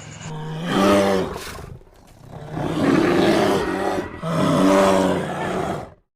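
Camel bellowing in repeated guttural calls: a pitched groan about a second in, a rougher, noisier stretch in the middle, and another pitched groan near the end, after which the sound cuts off suddenly.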